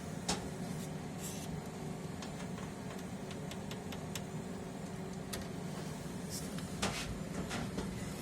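A steady low machine hum with scattered light clicks and taps, one stronger click about a third of a second in and another near the end.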